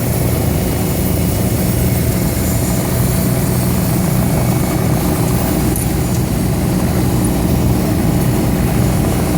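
Medical helicopter's rotor and engine running steadily as it comes in to land.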